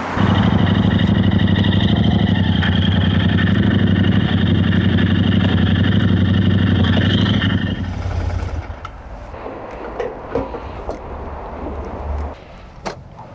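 Motorcycle engine running loudly and steadily for about eight seconds, then falling away to a much quieter background with a few knocks.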